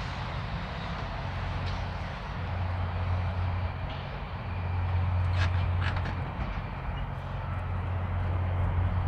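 Kenworth W900 semi truck's diesel engine running with a steady low hum, with a few brief sharp chirps about five and a half seconds in.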